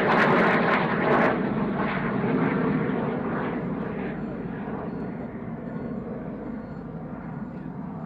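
Fixed-wing aircraft engine noise, loudest at first and fading steadily as the aircraft moves away.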